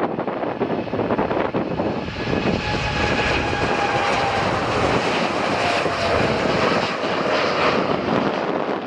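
Jet airliner passing by: a steady engine rush with a faint whine that slides slowly lower in pitch as it goes past.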